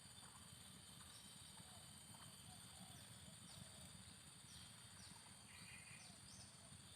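Faint outdoor ambience: a steady high insect buzz with short, falling bird chirps scattered through it.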